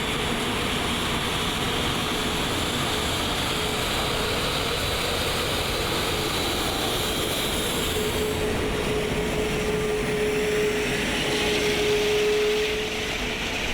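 Steady jet engine noise of a taxiing Airbus A380, with a thin steady whine that grows stronger in the second half and stops shortly before the end.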